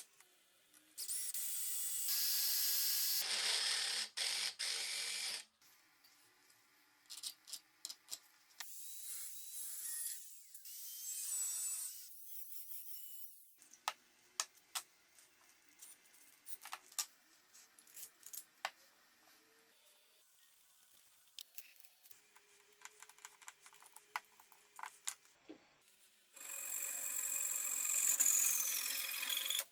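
Workshop tool sounds: a power tool runs in two bursts of several seconds, near the start and near the end, with sharp clicks and clinks of metal parts in between.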